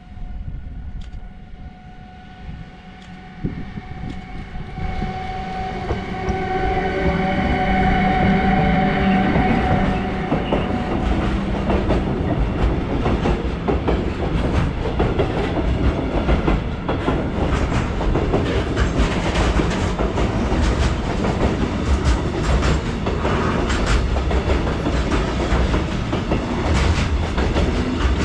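Freight train approaching and passing: a steady high whine grows louder over the first several seconds as the train comes close. About ten seconds in, the whine gives way to the heavy rumble of the wagons rolling by, with a rapid clickety-clack of wheels over the rail joints.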